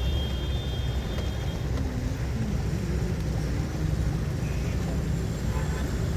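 Steady low rumble of a road vehicle driving, heard from on board.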